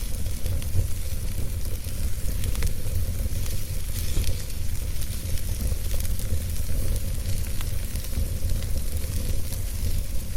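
Wood fire burning, with a steady low rumble of the flames and frequent small crackles and pops from the burning wood.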